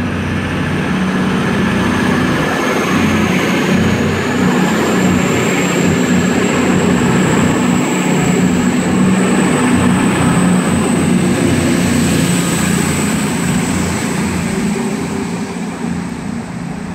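Class 221 Voyager diesel-electric multiple unit pulling out of the station under power: a steady diesel engine note with a high whine that rises over the first few seconds, the sound swelling to its loudest about halfway through and fading near the end as the train draws away.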